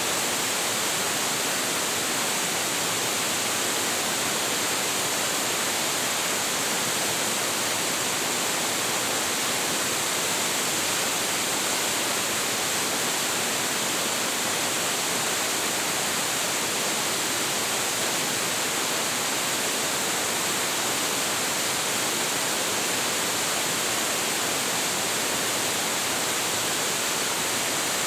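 A large waterfall with plenty of water falling into its pool, giving a steady, even rush of white water with no breaks or changes.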